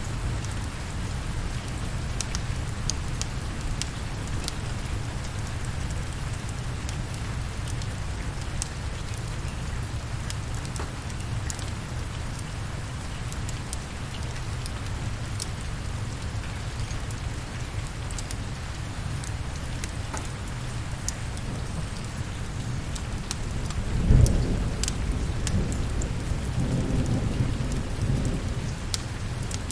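Steady rain with scattered sharp clicks, and a low roll of thunder that swells about three-quarters of the way in and rumbles on for a few seconds.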